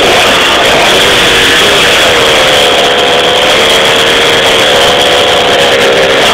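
50 cc two-stroke moped engine built with a full Pro Race kit, running loud and steady just above idle. Its pitch dips about a second in, then rises slightly and holds.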